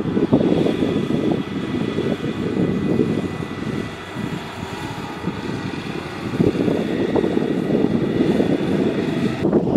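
Kubota DC70 Plus combine harvester's diesel engine and threshing machinery running steadily under load, with a low, rough drone and a faint high whine.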